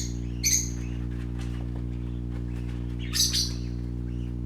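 Pet parakeets giving short, high-pitched chirps, one about half a second in and a louder pair about three seconds in, over a steady low hum.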